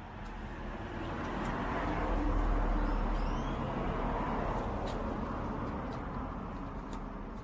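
A passing vehicle, its noise swelling to a peak about two to three seconds in and then fading away.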